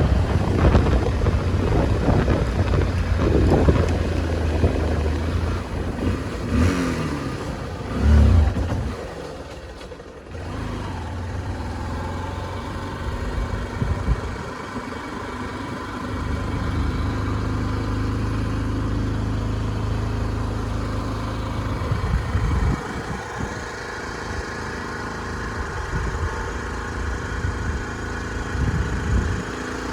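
Motorcycle engine running under way with wind noise, the revs rising and falling as it rides; the engine eases off for a moment around ten seconds in, then carries on steadily.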